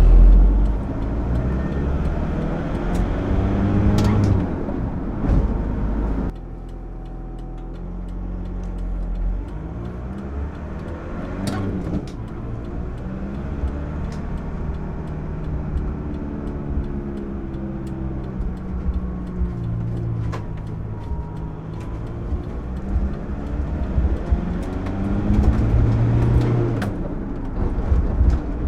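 VW T3 Syncro van's engine and drivetrain under way, the engine climbing in revs and easing off several times, with a sudden drop in level about six seconds in and a few short clicks.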